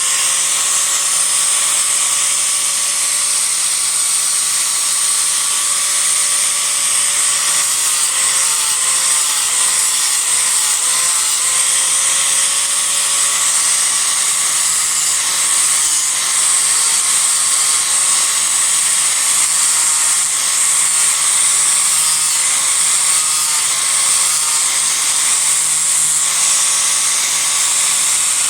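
Disc grinder running steadily while it rough-shapes a Japanese cedar offcut, its high whine over a hiss of grinding wood. The whine sags briefly in pitch a few times as the disc bears into the wood.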